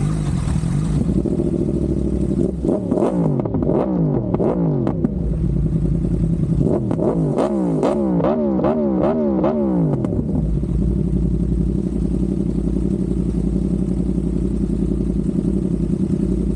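Yamaha YZF-R1 inline-four engine running, revved in two bursts of quick throttle blips, the pitch jumping up and dropping back several times a second, then settling to a steady idle about ten seconds in.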